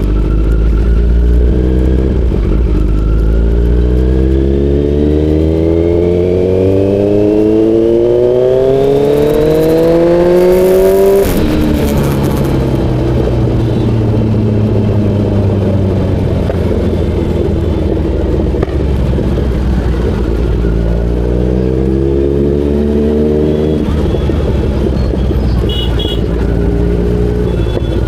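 Kawasaki Z900's inline-four engine accelerating, its pitch climbing steadily for about ten seconds before dropping away as the throttle closes. A second, shorter climb and drop comes about three-quarters of the way through, over a steady low rumble.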